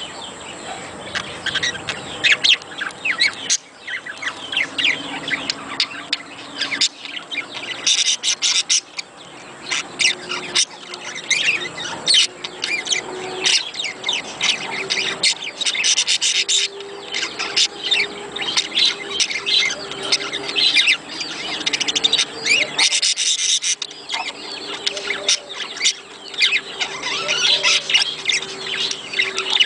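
Budgerigars chattering: a dense, continuous run of rapid chirps, warbles and squawks, with short louder flurries.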